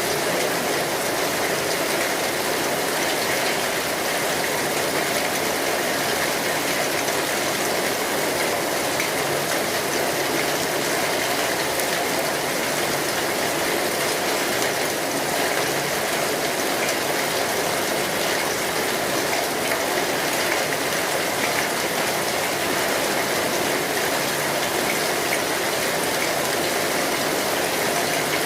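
Steady rainfall: an even, unbroken hiss of rain on surfaces, with no change in strength.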